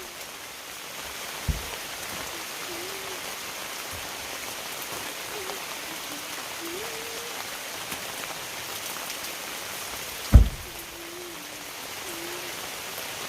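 Steady heavy rain falling on a canopy. Two dull thumps, one about a second and a half in and a louder one near the end.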